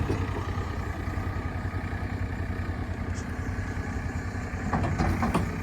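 JCB 3CX backhoe loader's diesel engine idling steadily, with a few short knocks near the end.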